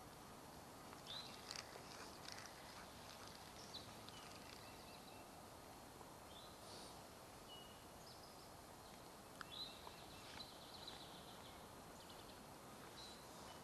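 Faint, scattered bird chirps and short calls over a quiet outdoor background hiss, coming in small clusters a few seconds apart.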